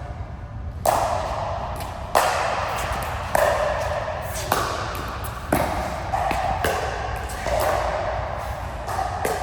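Pickleball rally: paddles striking the hard plastic ball, a sharp ringing pop roughly once a second, about eight hits in all.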